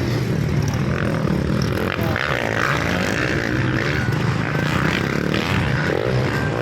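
Motocross dirt bikes racing, their engines running and revving with rising and falling pitch.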